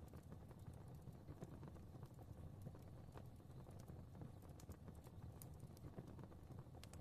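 Faint fire crackling: irregular small pops and snaps over a low, steady rumble of flames.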